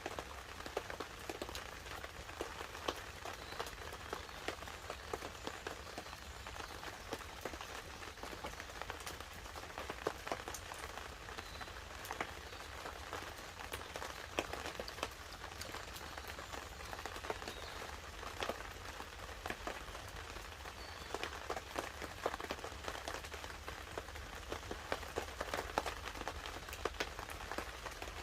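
Light rain pattering steadily on a tarp, mixed with a wood campfire crackling in many small, sharp pops.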